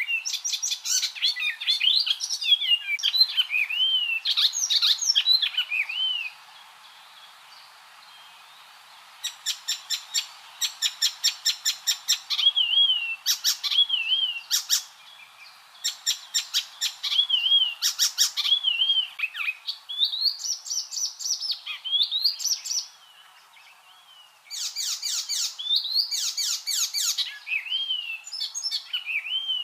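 Icterine warbler singing: a fast, varied song of slurred whistled notes mixed with rapid trains of harsh, clicking notes, broken by two short pauses.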